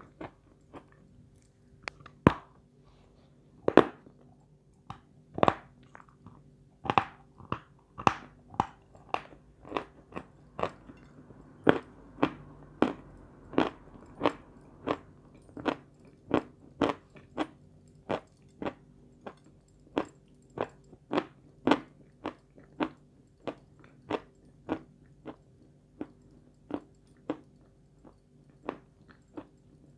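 Close-up crunching bites and chewing of a chunk of Sevryukovo edible chalk: a steady run of sharp crunches, about one to two a second, loudest in the first few seconds.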